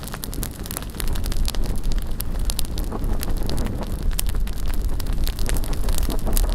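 Bonfire crackling with many quick sharp pops, while wind buffets the microphone with a steady low rumble.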